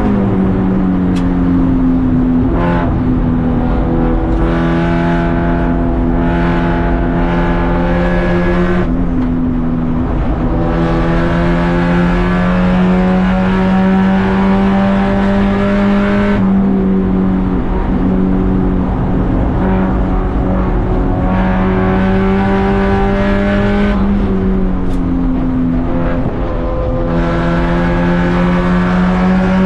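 Race car engine running hard under load, its note holding for long stretches and stepping to a new pitch several times as the car shifts and changes speed.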